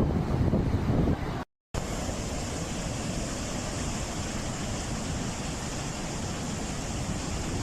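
Gusty wind rumbling on the microphone, then a brief cut to silence about a second and a half in, followed by a steady, even rushing noise.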